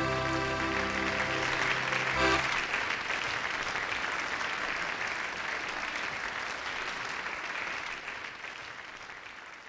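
A song ends on a held final chord about two seconds in, and audience applause takes over and fades away near the end.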